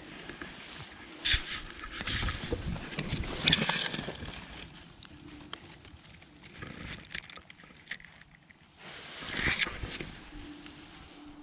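Wind gusting on the microphone with rustling, in surges about a second in, from two to four seconds in, and again near the end.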